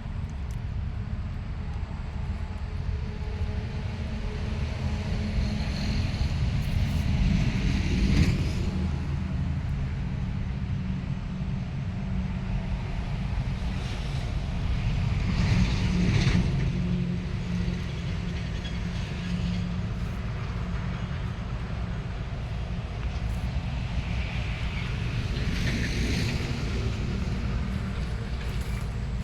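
Steady low rumble of a running vehicle, swelling louder three times.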